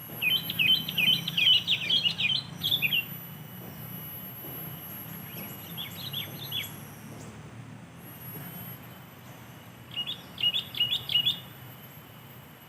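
Sooty-headed bulbul singing: three bursts of quick, bubbly chirping notes. The first lasts about three seconds, and shorter ones come near the middle and near the end.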